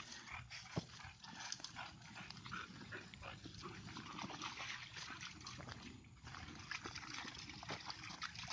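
Dogs moving close by on a woodland trail, with irregular crunching and rustling steps through leaves and brush.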